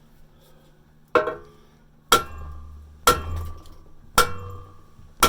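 Hammer blows on a steel tool driven into a rusted exhaust pipe stub to split it out of a muffler's inlet, five strikes about a second apart, each leaving the metal ringing.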